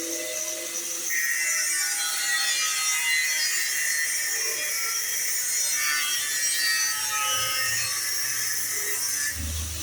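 Steady scraping and rubbing of a tool working a workpiece in a welding shop, with a brief low thud near the end.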